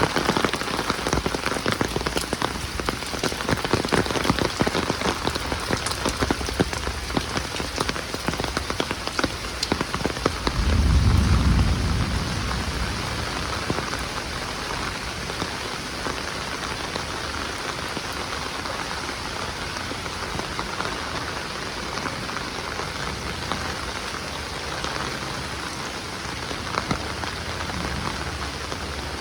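Heavy rain falling steadily, with many sharp drop ticks that are densest in the first half. A short low rumble swells and fades about eleven seconds in.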